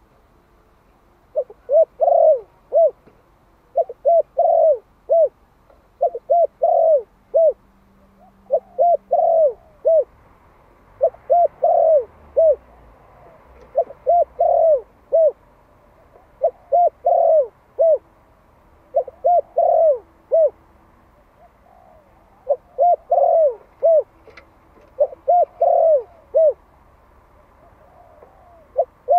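Spotted dove of the Malay type, a young male lure bird, giving its calling coo to draw wild doves. It sings short phrases of three or four coos, repeated about every two and a half seconds.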